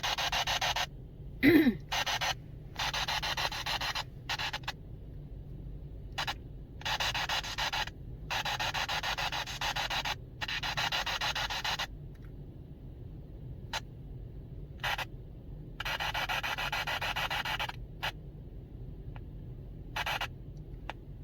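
Bursts of radio static from a spirit box that switch on and off abruptly, some under a second and some two or three seconds long, over a steady low hum. About one and a half seconds in, a short, loud tone slides downward.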